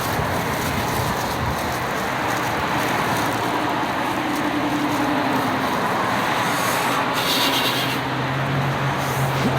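Steady road-traffic noise, with a low engine hum from a vehicle growing near the end.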